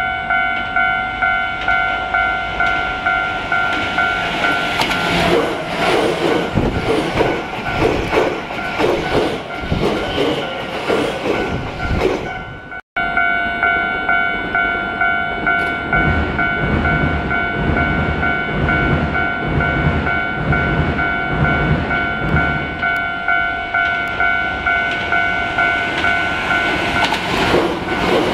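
A level crossing warning bell rings steadily in a fast, regular pulse as a train rolls past with its wheels clacking over the rail joints. There is a brief cut about 13 seconds in, and a second train pass follows.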